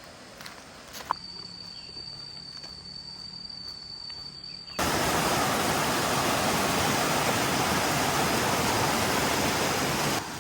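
Waterfall: loud, steady rushing water that starts abruptly about five seconds in. Before it there is a quieter stretch with a single steady high insect tone.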